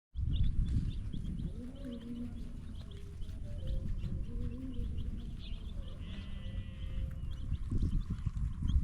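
Small birds chirping in short, repeated high notes, with a brief trill about six seconds in, over a steady low rumble. A lower, wavering call sounds between about one and five seconds in.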